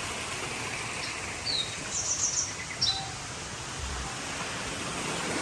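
Steady outdoor background noise, with a few short, high bird chirps between about one and a half and three seconds in.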